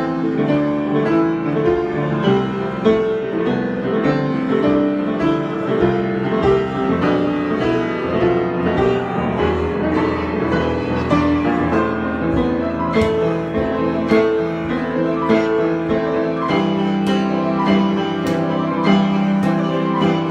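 Piano improvisation: a continuous flow of notes and chords at a steady, moderately loud level, with crisp note attacks throughout.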